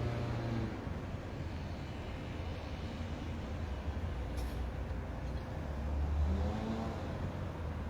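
Low, steady engine rumble from a motor vehicle or heavy machinery, with an engine note that swells and rises briefly about six seconds in.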